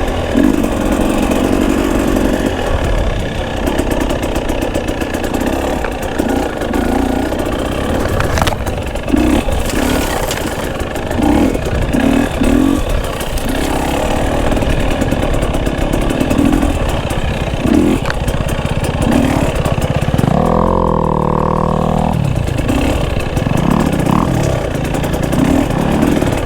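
Dirt bike engine running on the trail, its revs repeatedly rising and falling with the throttle, with a stronger, longer rev about twenty seconds in.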